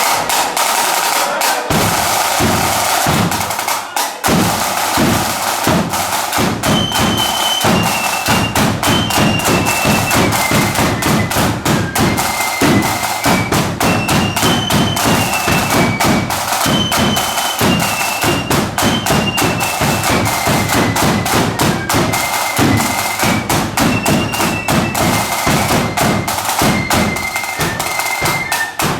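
Marching band playing a march: snare and bass drums beat a rapid, driving rhythm from about a second and a half in, and a high wind-instrument melody joins about six seconds in.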